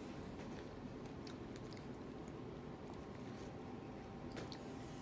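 Quiet close-up chewing of soft dragon fruit, with a few faint wet mouth clicks.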